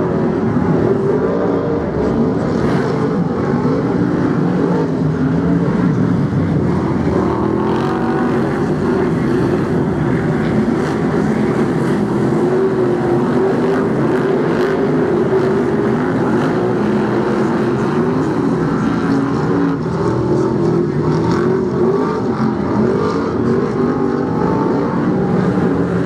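A pack of BriSCA F1 stock cars racing: many engines running together, their pitch rising and falling continuously as the cars lap the oval.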